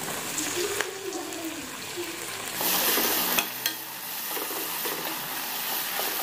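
Chopped tomatoes sizzling in hot oil and butter with frying onions in a kadhai, stirred with a wooden spatula that clicks against the pan a few times. The sizzle surges about three seconds in.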